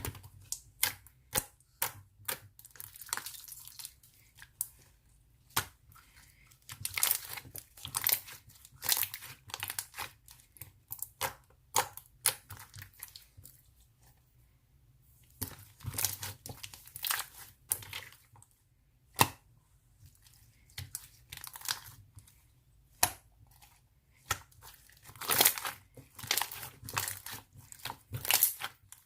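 Avalanche slime being stretched, pressed and poked by hand, giving runs of sharp crackling clicks and squishy pops, with a couple of short pauses.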